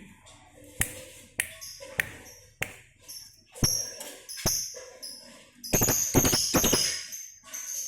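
Lovebirds chirping: short, sharp shrill calls and clicks, bunched into quick clusters about four and six seconds in.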